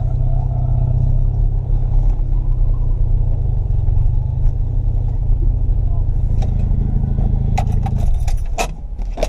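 The 1982 Mazda RX-7's 12A rotary engine running at a steady speed. It eases off about eight seconds in, with a few sharp clicks and knocks near the end.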